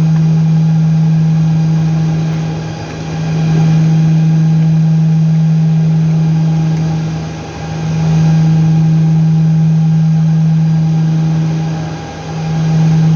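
A steady low machine hum with a few higher overtones, dipping briefly about every four and a half seconds.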